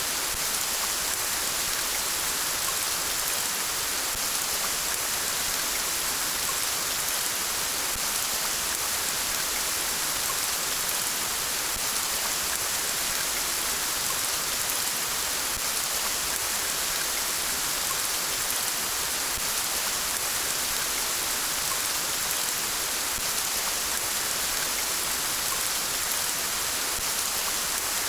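Steady rain falling, an even hiss of many drops, with the rush of a river beneath it.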